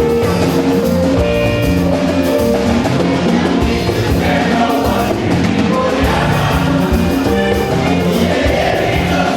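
Congregation singing a gospel song over drums and percussion.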